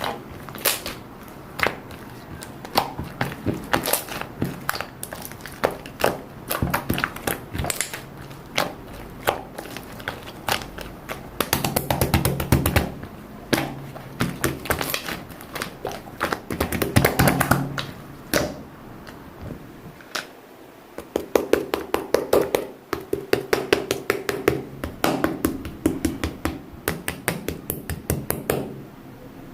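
A long run of quick taps and clicks, as of small objects being handled. They come in denser flurries about twelve and seventeen seconds in, and in a fast rapid run over the last third.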